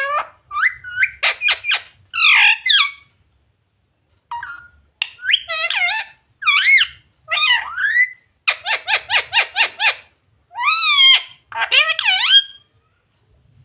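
Ringneck parakeet squawking and squeaking in a run of short, high, wavering calls, with a brief pause about three seconds in and a quick string of notes past the middle.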